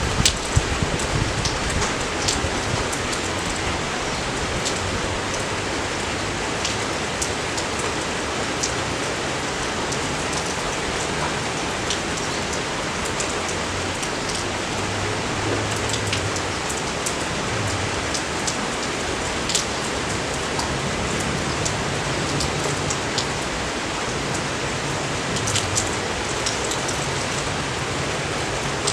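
Steady rain falling, an even hiss of rain with many individual drops ticking sharply and irregularly close by.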